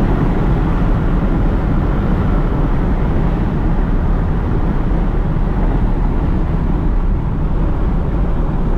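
Lexus SC430's 4.3-litre V8 running steadily at speed through straight pipes with an X-pipe and no mufflers, a loud deep exhaust drone.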